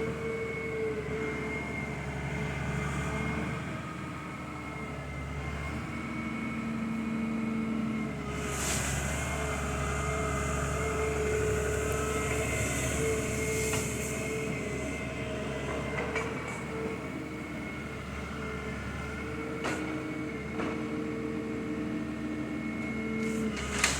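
A heavy diesel machine running steadily, with a low drone and high steady whines that come and go, and a few sharp clicks and knocks.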